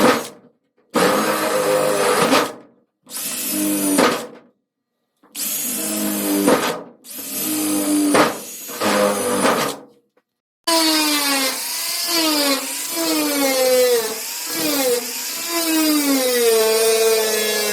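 Handheld power tool motor running in several short runs, then a longer run about ten seconds in whose pitch repeatedly dips and recovers as it bogs under load while cutting the hood's sheet metal.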